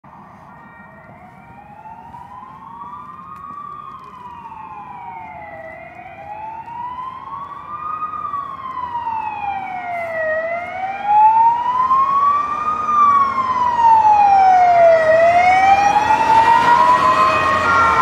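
Ambulance siren wailing, its pitch sliding slowly up and down, each rise or fall taking about two and a half seconds. It grows steadily louder as the ambulance approaches, and vehicle road noise builds under it near the end.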